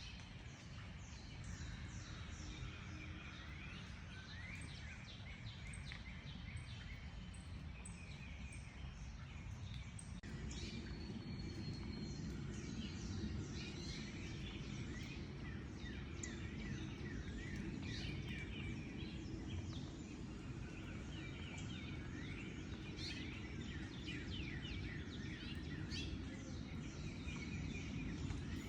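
Many songbirds chirping and trilling at once in a dense chorus, over a steady low rumble of background noise that grows louder about ten seconds in.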